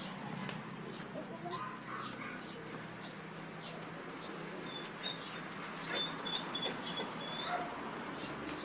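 Small birds chirping with short high calls, including a quick run of repeated chirps from about five seconds in.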